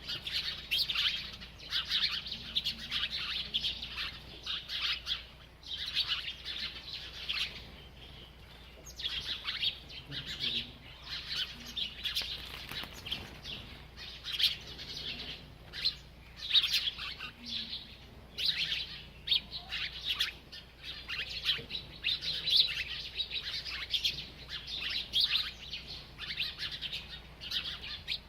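A small bird chirping: quick high chirps in dense, almost unbroken runs, with a short lull about eight seconds in.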